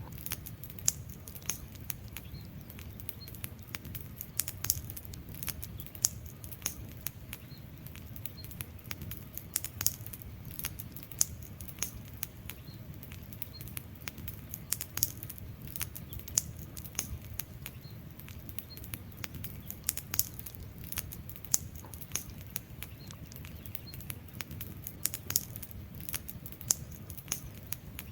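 Wood fire crackling: irregular sharp pops and snaps, several a second and some much louder than others, over a low steady rumble of the burning fire.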